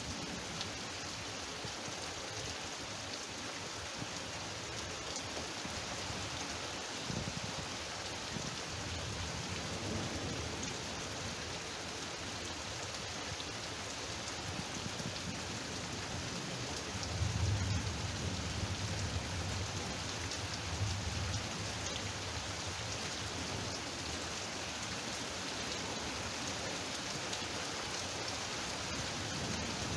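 Torrential rain pouring steadily, with a low rumble of thunder rolling in about seventeen seconds in and lasting several seconds.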